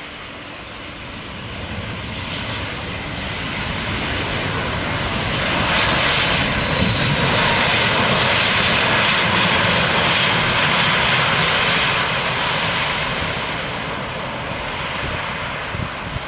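Airliner on landing approach passing close by: the engine noise swells to a peak over several seconds with a faint whine falling in pitch as it goes by, then fades away.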